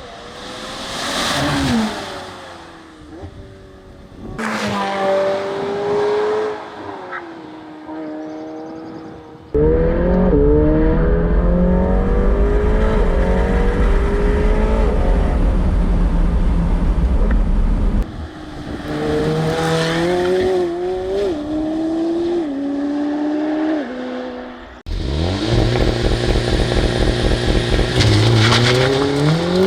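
Supercar engine and exhaust under hard acceleration, its pitch climbing through each gear and dropping at every upshift. A car sweeps past with falling pitch about a second in, and the sound jumps between shots three times, at about 10, 18 and 25 seconds.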